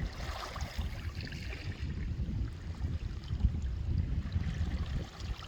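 Water rushing and splashing along a sailing kayak's hull as it runs downwind at speed, with wind buffeting the microphone in an uneven low rumble.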